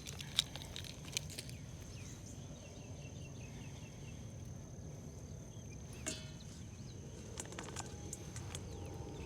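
Quiet outdoor ambience: a low steady rumble under a thin, steady high-pitched tone, with scattered light clicks and ticks.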